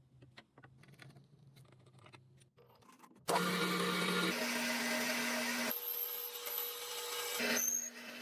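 A few faint clicks, then about three seconds in a power tool starts running steadily with a low hum. Its pitch and tone change abruptly a few times.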